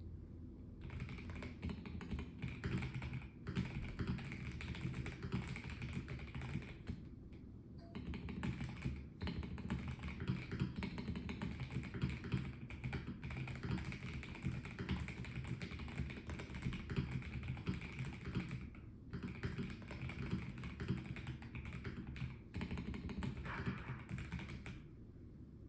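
Typing on a Melgeek Mojo84 plastic-case mechanical keyboard: a rapid, continuous patter of key clicks in bursts, with brief pauses between runs of words.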